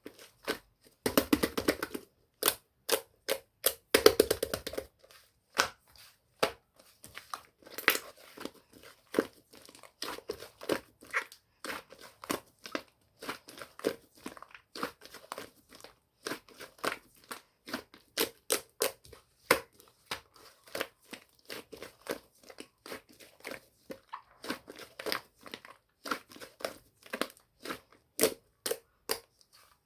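Mixed slime being pressed, poked and squished by hand: a constant run of sharp crackling clicks and pops, with two denser bouts of squishing about one and four seconds in.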